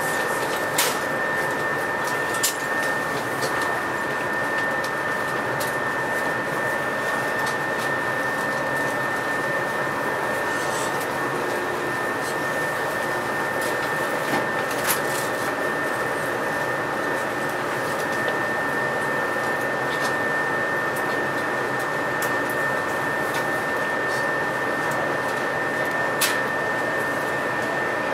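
Running noise inside a JNR-built 117 series electric train: a steady rumble and hiss with a constant high whine, broken by a few scattered sharp clicks.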